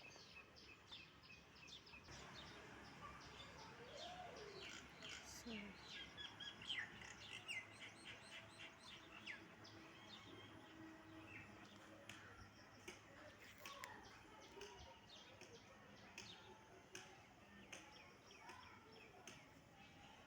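Faint, busy chirping of many birds, with short high calls overlapping throughout and thinning out in the second half.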